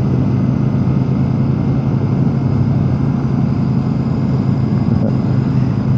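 Royal Enfield Super Meteor 650's parallel-twin engine running at a steady cruising speed, its pitch holding level.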